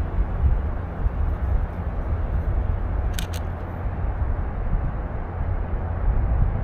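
Canon EOS RP camera shutter firing once about three seconds in: two quick sharp clicks close together. Under it is a steady low rumble.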